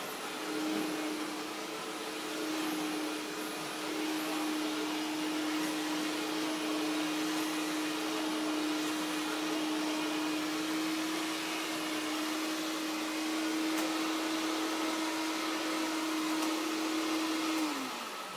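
Hoover Dial-A-Matic vacuum cleaner running with a steady motor whine. Near the end it is switched off and the motor winds down with a falling pitch.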